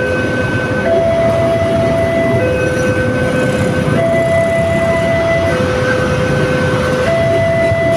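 Railway level-crossing warning alarm sounding a two-tone electronic chime, switching between a higher and a lower tone about every one and a half seconds, over the steady noise of a commuter train passing the crossing.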